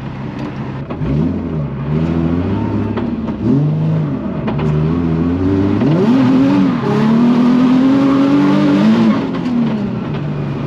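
Nissan 350Z drift car's engine revving hard, its pitch sweeping up and down several times as the throttle is worked through a slide. It then holds high for a few seconds before dropping near the end.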